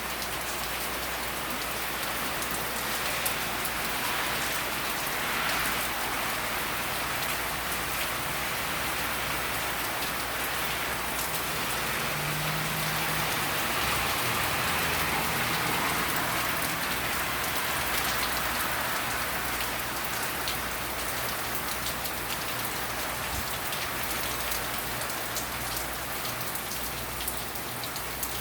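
Hurricane rain falling steadily, with many small drop ticks on surfaces.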